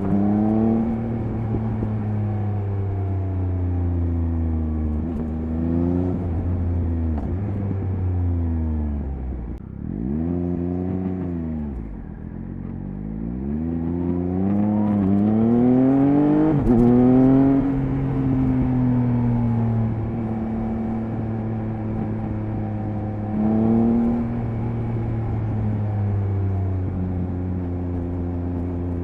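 Triumph Speed Triple 1050 RS inline-three motorcycle engine under way. Revs fall twice and dip, then climb in stepped rises as it accelerates up through the gears, then settle into a steady cruise, with a short rev blip near the end.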